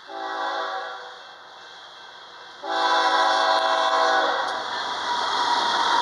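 Freight locomotive air horn sounding a chord, a short blast and then a longer one about two and a half seconds later, from the lead unit, a BNSF ES44DC. After the second blast the noise of the approaching locomotives grows loud.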